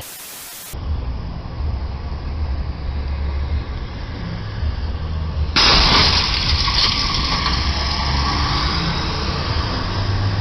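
Car driving: a steady low engine and road rumble after a brief burst of static. About five and a half seconds in it jumps suddenly to a much louder hiss of road and wind noise that holds on.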